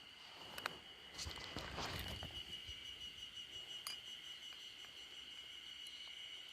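Cicadas droning in a steady, high, even chorus. About a second in, a burst of rustling lasts a second or so, and a couple of sharp clicks stand out.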